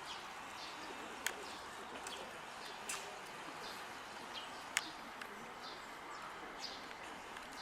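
Great spotted woodpecker making three sharp single clicks, a second or two apart, over faint chirping of small birds in the trees.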